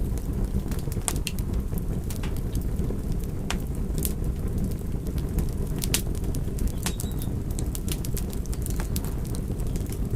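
Fire crackling: a steady low noise of burning flames with sharp, irregular crackling pops, a few each second.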